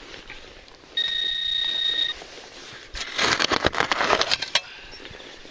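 Metal detector tone: one steady electronic beep held for about a second as the target is located. Then about a second and a half of scraping and rustling soil as the dirt is worked through by hand.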